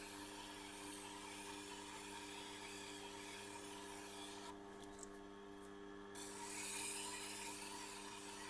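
Steel knife blade being stroked on a sharpening surface to remove the burr: steady abrasive rubbing over a constant hum. The rubbing stops for a moment a little past halfway, then resumes louder.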